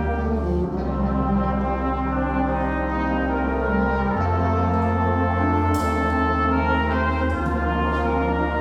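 Wind band playing a slow passage of held brass chords over sustained low bass notes, the bass note changing every second or two.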